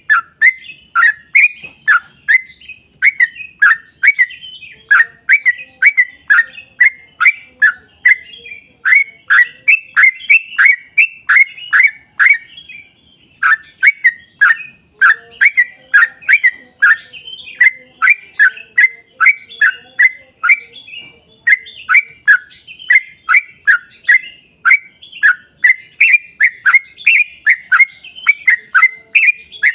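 Yellow-vented bulbul (trucukan) singing energetically: a fast, unbroken string of short, downward-sliding notes, about two to three a second, with one brief pause about halfway through.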